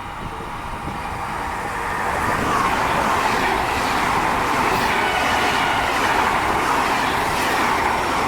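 Train running through a station, the rushing of its wheels on the rails building over the first two seconds and then holding steady. A thin high wheel squeal creeps in at the very end.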